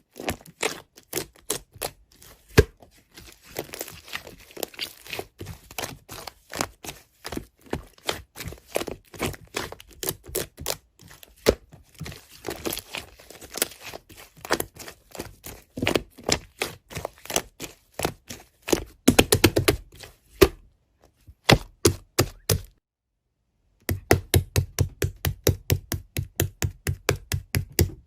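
A rapid, irregular series of sharp taps, cracks and clicks, with a short silent break near the end and then an even run of taps at about four a second.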